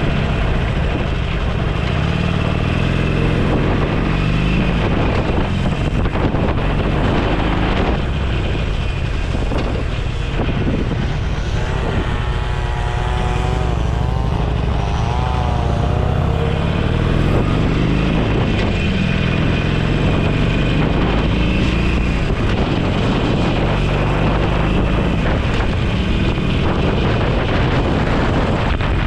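Motorcycle engine running under way, with wind rushing over the microphone. The engine pitch rises and falls several times around the middle as the revs change.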